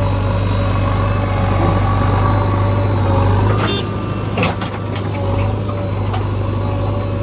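Diesel engine of a JCB 3DX backhoe loader running steadily, with a sharp metallic knock about halfway through and a smaller one shortly after.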